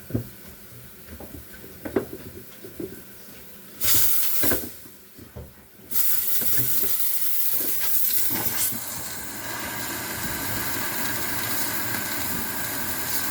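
Handheld defrosting tool hissing: a short blast about four seconds in, then a steady hiss from about six seconds on, melting the ice packed over the freezer fan of a frozen-up Samsung refrigerator.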